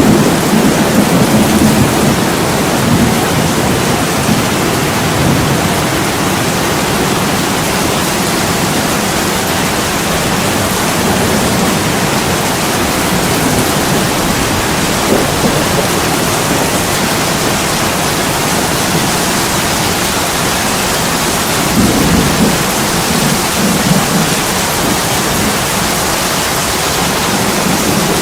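Heavy rain pouring steadily on a window, with a low rumble swelling up in the first few seconds and again about 22 seconds in.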